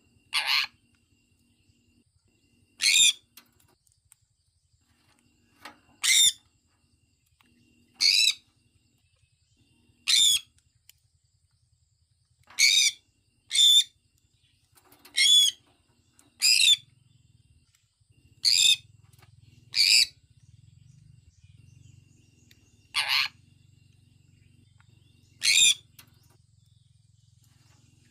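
Sun conure giving short, shrill chirping calls, one every two to three seconds, some coming in quick pairs.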